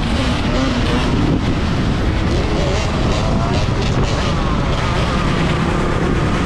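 Wind rushing over a GoPro microphone on a moving Sur-Ron electric dirt bike, with a faint motor whine that rises and falls in pitch.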